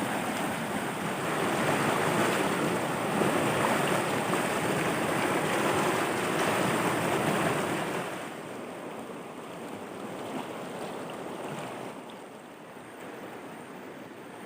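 Stream water rushing over rocks in rapids, a steady rush that drops noticeably in level about eight seconds in.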